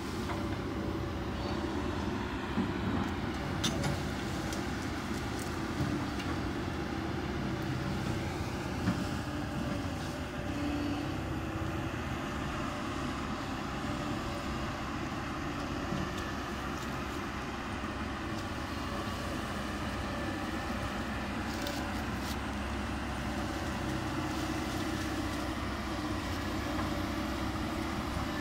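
Kobelco SK200 hydraulic excavator's diesel engine running steadily under working load, with its pitch shifting a little about ten seconds in. A few sharp knocks or cracks come through over the engine.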